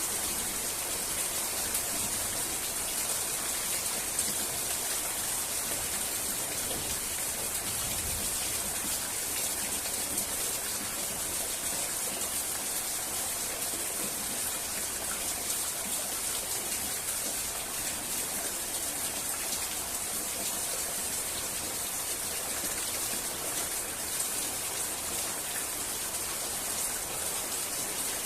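Steady rain falling, an even hiss of many drops with scattered individual drop taps.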